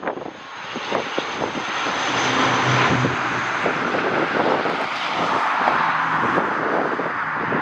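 Airliner's engines running as it passes on approach to land, the noise swelling over the first couple of seconds and then holding steady. Wind gusts buffet the microphone.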